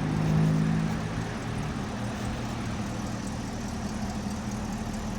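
Chevrolet Corvette's V8 engine idling steadily, a little louder in the first second.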